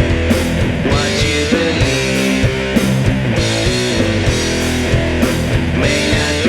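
Doom metal band playing: distorted electric guitar riffing with bass and drums.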